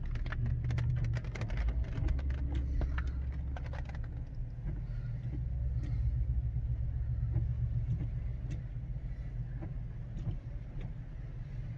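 Car driving, heard from inside the cabin: a steady low rumble of engine and tyres on the road. A rapid cluster of clicks and taps fills the first few seconds, with only a few scattered ticks after that.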